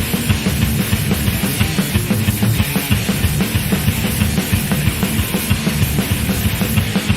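Thrash metal band in an instrumental passage: guitars over a fast, steady drum kit beat, with no vocals.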